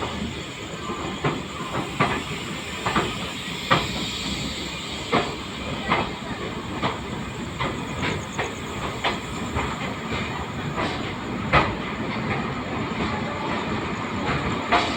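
LHB passenger coach running along the track: a steady rumble and hiss with irregular sharp clicks and knocks, a little over one a second, as the wheels pass over rail joints.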